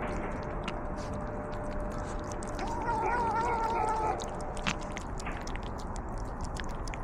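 A cat gives one long, wavering meow about three seconds in, over a steady run of small crunchy clicks like cats chewing dry food.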